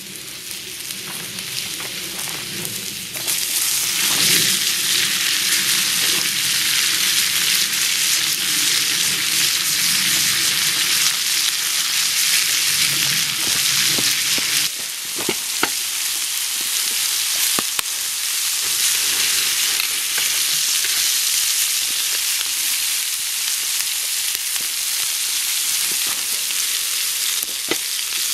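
Steak and asparagus sizzling on a burner, a dense steady hiss that grows louder about three seconds in, with a few faint pops and ticks.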